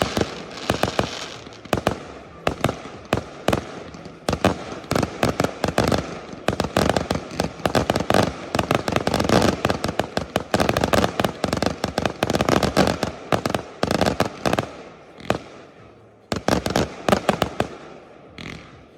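Fireworks display: a rapid, dense run of shell bursts and bangs that thins out to a few separate bangs near the end.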